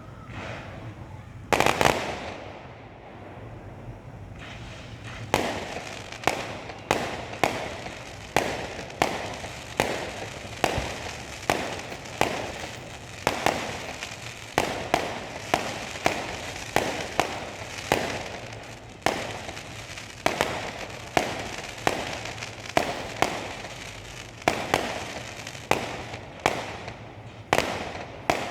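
Fireworks display: one loud bang about two seconds in, then from about five seconds a steady barrage of sharp bangs, a little more than one a second, each trailing off in a brief crackle.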